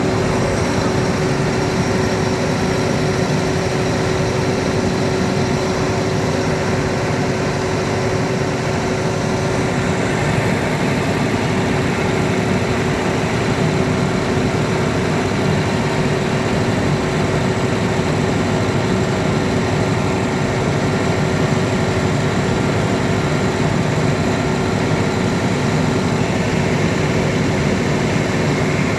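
Cummins diesel generator engine running steadily, a constant low rumble with a steady hum on top.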